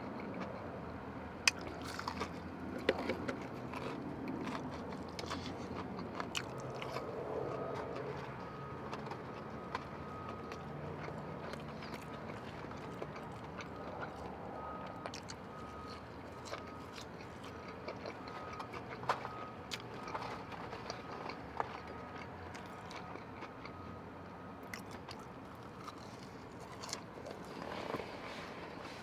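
Close-up chewing and biting of fried chicken tenders and crinkle-cut fries, with scattered sharp clicks of crunching.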